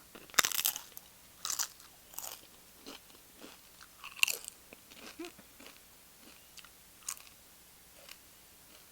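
Crunchy bite into a tortilla chip, followed by chewing crunches that grow sparser and fainter, with another loud crunch about four seconds in.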